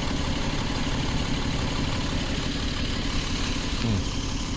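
2011 Jeep Wrangler's 3.8-litre V6 idling steadily with a misfire, which the mechanic traces to cylinder 2.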